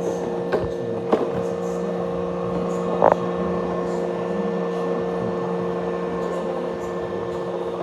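Roomba robot vacuum running with a steady motor hum, with a few short knocks in the first seconds and a brief louder sound about three seconds in.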